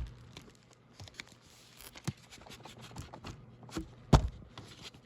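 Plastic shrink-wrap being torn and crinkled off a 4K Blu-ray case, with scattered handling clicks and a sharp knock about four seconds in.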